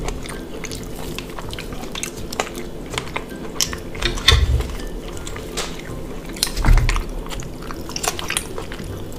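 Close-miked shellfish eating: wet chewing and mouth sounds with many sharp clicks, including a metal pick working against a shell, and a couple of louder low thumps.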